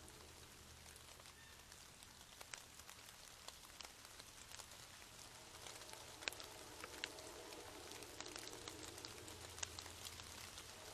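Faint rain falling, with many scattered drops ticking sharply, over a steady low hum.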